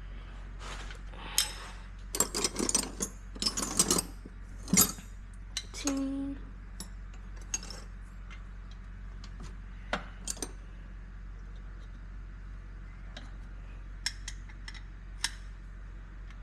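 Metal hand tools and sockets clinking and clattering as they are rummaged through in a toolbox. It is a busy jumble of sharp clinks for the first few seconds, then scattered single clicks.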